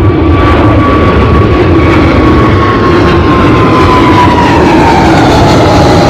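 Jet airliner's engines at takeoff thrust, a loud steady roar with a whine that slowly falls in pitch as the aircraft passes.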